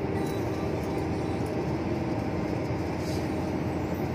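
A truck running along a highway: steady engine and road noise with a constant low hum.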